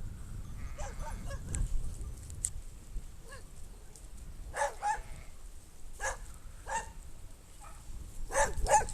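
A dog barking, short barks in quick pairs about halfway through and again near the end, over a steady low rumble.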